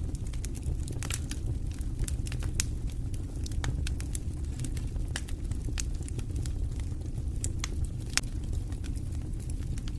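Log fire in a fireplace crackling: irregular sharp pops and snaps over a steady low rumble of the flames, with one louder pop about eight seconds in.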